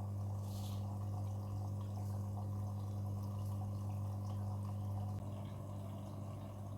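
Midea front-loading washing machine taking in water: a steady low hum, with water trickling and dripping into the drum. The hum drops a little about five seconds in.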